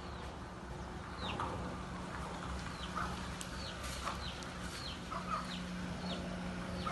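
Birds chirping outdoors: short, high, falling chirps repeated about once a second, over a steady low hum.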